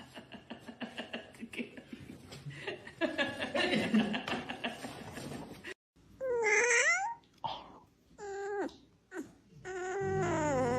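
A cat meowing: three long, wavering meows in the second half, the last one the loudest. Before them comes a rapid, rhythmic rattling.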